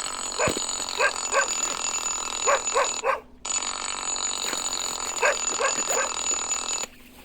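A dog barking in short, sharp clusters of two or three barks over a steady high hiss.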